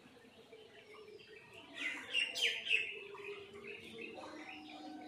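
Small birds chirping outdoors, with a quick run of loud falling chirps about two seconds in and scattered softer calls, over a faint steady low hum.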